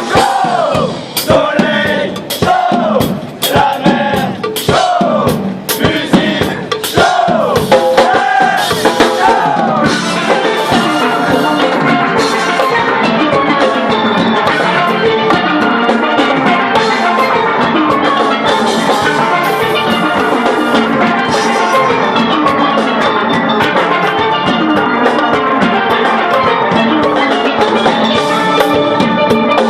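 Steel band playing oil-drum steelpans with drum kit percussion. Separate strokes and drum hits in the first ten seconds thicken into a dense, steady stream of notes.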